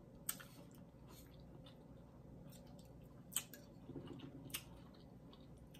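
Faint chewing with the mouth closed, soft and wet, broken by a few sharp clicks, the loudest about three and a half seconds in.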